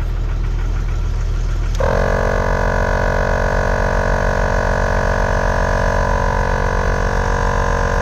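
RFX air compressor kicking on with a click about two seconds in and then running with a steady whine, pumping air into four tires at once through the inflation system, over a steady low engine drone.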